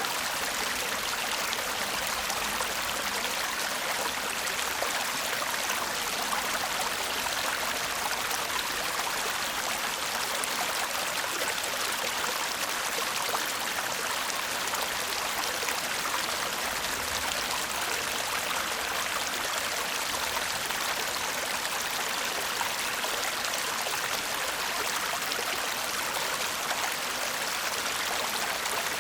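Small stream babbling steadily, an unbroken rush of running water.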